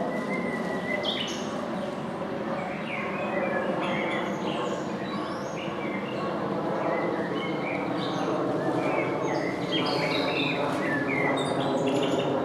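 Songbirds chirping with many short, quick calls over a steady hum of city noise.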